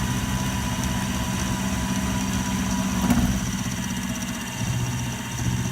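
Milling machine running with a steady mechanical hum. A short knock about three seconds in.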